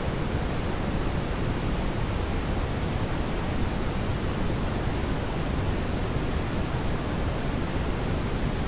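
Steady brown noise: an even, deep hiss, strongest in the bass, with no changes.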